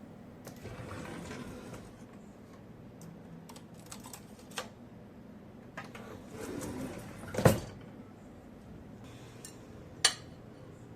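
Dishes and utensils being handled: scattered clinks and knocks with some rustling in between, the loudest knock about seven and a half seconds in and another sharp clink about ten seconds in.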